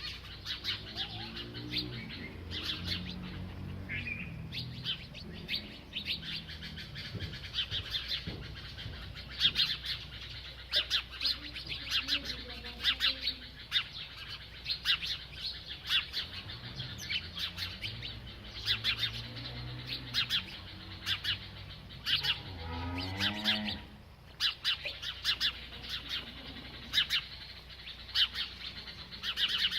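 A bird chirping over and over, in many short high chirps in quick runs. Beneath them, a few fainter low pitched sounds, one rising in pitch about three quarters of the way through.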